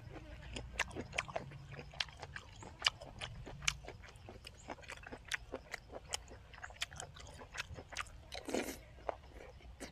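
Close-up chewing of spicy pounded squid-tendon salad with raw vegetables: wet mouth clicks and crisp crunches, irregular, a few a second.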